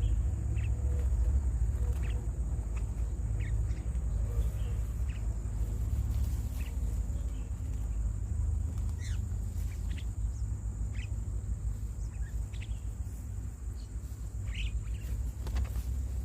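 Birds giving short, scattered chirps, one or two a second and irregular, over a steady low rumble and a thin steady high tone.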